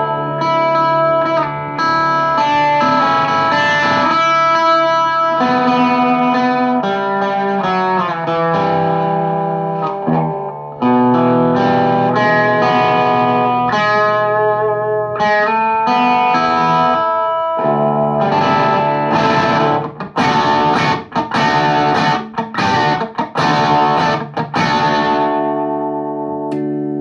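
Les Paul Custom electric guitar played through a VHT Deliverance D60 KT88 valve amp into a Bogner 4x12 cabinet with Vintage 30 speakers, miked with an SM57. The guitar plays sustained, moderately distorted chords and notes, then about two-thirds in switches to short stop-start chords with sudden gaps, and lets a chord ring near the end.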